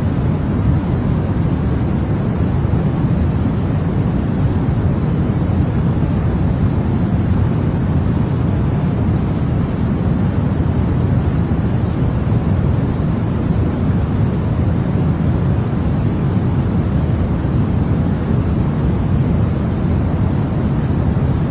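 Continuous noise played to soothe a baby to sleep, sold as white noise but weighted toward the low end, so it comes across as a deep, even rushing rather than a bright hiss. It is steady and unchanging throughout.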